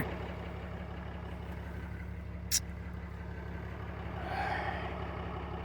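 Cummins 6.7 turbo-diesel idling steadily, with a single sharp click about two and a half seconds in.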